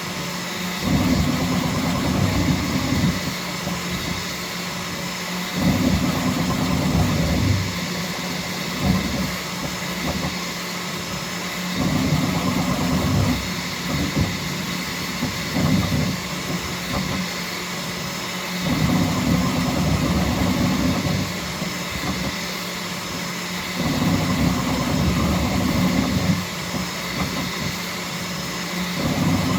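Bambu Lab X1C 3D printer running at its fastest speed setting: the toolhead's stepper motors whir in stretches of one to three seconds, coming and going every few seconds, over the steady hum of its cooling fans.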